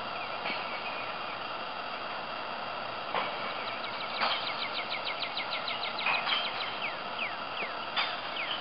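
Outdoor background hiss with a bird calling: a quick run of short descending chirps about halfway through, then a few slower single chirps near the end. A few sharp clicks are scattered through it.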